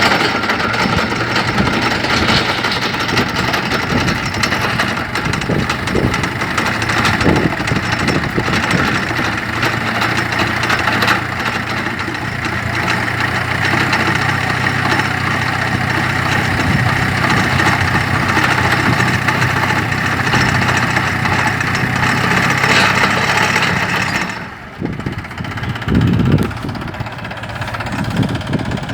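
Tractor engine running steadily under a continuous mechanical din, powering a tractor-mounted drill. About 24 seconds in it drops and thins out briefly, then comes back louder.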